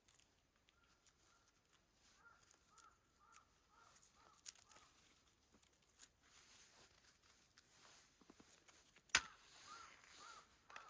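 Faint bird calls: a run of short, arched notes repeated about twice a second, then three more near the end. Scattered sharp clicks and snaps, the loudest about nine seconds in.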